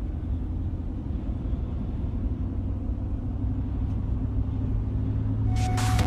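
Steady low rumble of a car moving along the road. Electronic music starts near the end.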